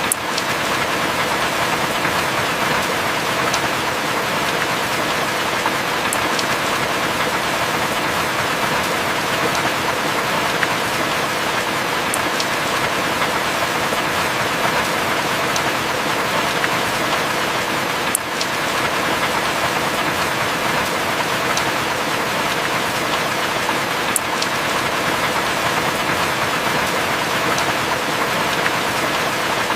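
Heavy rain falling steadily: a dense, even hiss with a few sharp drop ticks scattered through it and a brief dip about eighteen seconds in.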